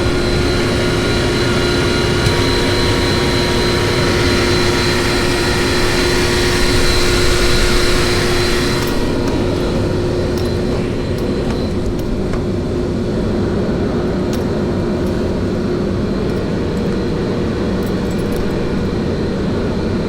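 Chicago Pneumatic QRS 15 rotary screw air compressor running steadily, a drone with a steady hum and whine. A loud high hiss over it stops suddenly about nine seconds in while the compressor keeps running.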